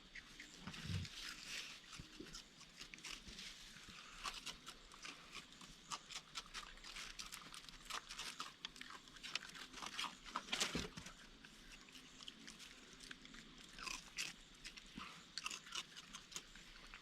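A raccoon crunching and chewing food at a feeder close to the microphone: an uneven run of small crisp crunches and clicks, one louder crunch about two thirds of the way through.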